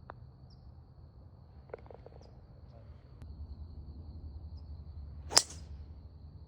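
Golf club striking a golf ball: a single sharp, loud crack about five seconds in, over a faint steady high-pitched buzz.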